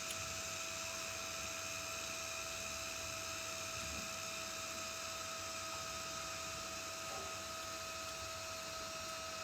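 Steady hum and hiss with a constant high whine, unchanging throughout, with no distinct events.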